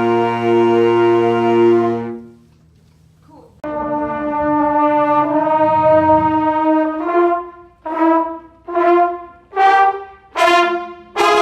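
Marching band brass section playing. A full held chord cuts off about two seconds in, and after a short silence a new held chord starts. It gives way to a series of short, separated accented notes.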